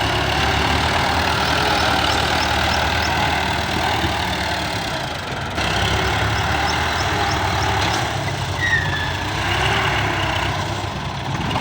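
Combine harvester running steadily: a heavy diesel engine's drone under a haze of machinery noise, with two short runs of faint high chirps.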